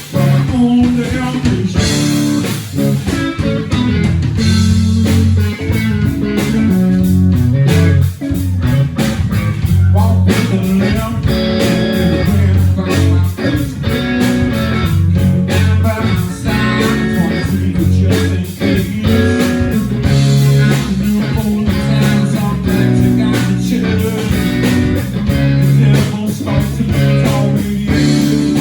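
A live blues-rock band playing, led by guitar over bass guitar with a steady, dense beat.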